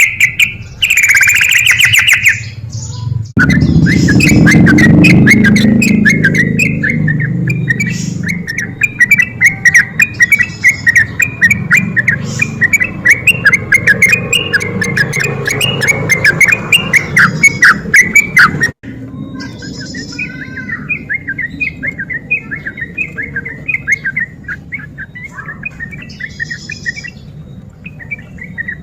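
Yellow-vented bulbul (trucukan) singing a fast rolling 'ropel' chatter, dense runs of rapid chirps. The recording is spliced, with abrupt cuts about three seconds in and again just before two-thirds through. A low rumbling background sits under the song in the middle stretch.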